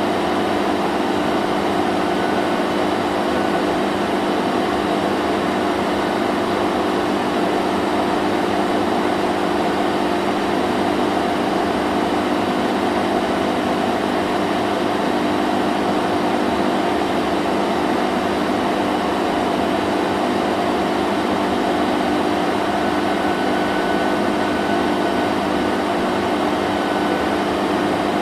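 Vacuum cleaner running steadily: an unchanging motor hum with a higher whine over the rush of air.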